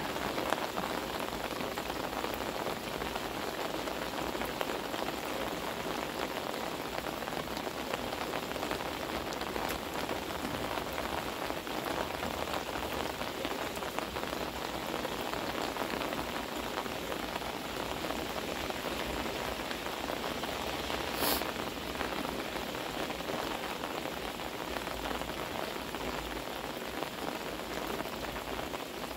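Heavy rain pouring down steadily, with one brief sharp noise about two-thirds of the way through.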